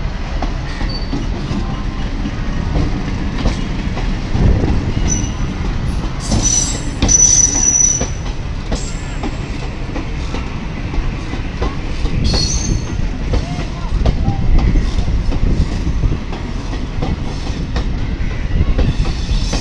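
Indian Railways EMU local train pulling out and rolling past: a steady rumble with the clack of wheels over rail joints. High-pitched wheel squeals cut in from about five to eight seconds in and again briefly around twelve seconds.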